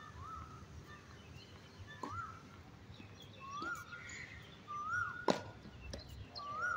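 A bird repeats the same short whistle, rising then holding, about every second and a half, while tennis balls are struck with racquets on the courts, the sharp hits coming a few times with the loudest just past the middle.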